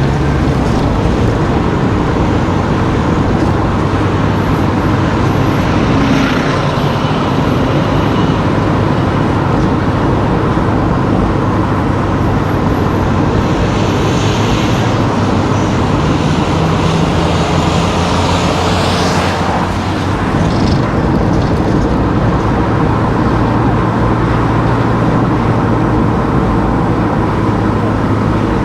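A car driving through town streets: steady road and engine noise with a low engine hum that shifts in pitch now and then, and a brief rising sweep about two-thirds of the way through.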